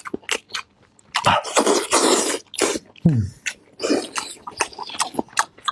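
A person chewing and smacking on a mouthful of food: a quick run of wet clicks and crunches, with a short falling hum about three seconds in.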